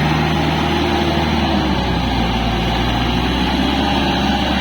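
Kubota L4503 tractor's diesel engine running steadily under load.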